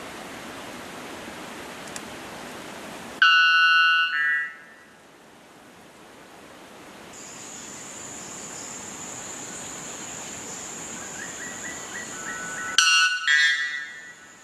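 Strange bird calls: two loud, harsh calls rich in overtones, about nine seconds apart, the first lasting about a second and a half. A steady rushing noise cuts off suddenly just before the first call, a thin high steady tone runs under the second half, and a few faint short rising chirps come just before the second call.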